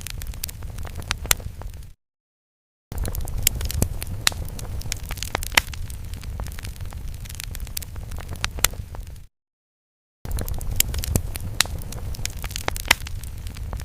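Fire sound effect: a low steady rumble with sharp crackles and pops. It drops out to dead silence for about a second twice, about two seconds in and again near the ten-second mark, where the looped effect restarts.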